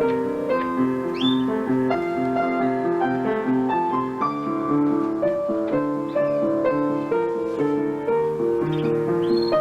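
Piano music playing a steady run of notes, with a few short high bird chirps over it, about a second in and again near the end.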